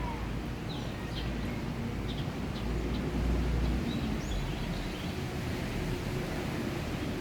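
Steady hiss of a summer rain shower, with birds giving short chirps over it and a low rumble underneath that swells about three seconds in.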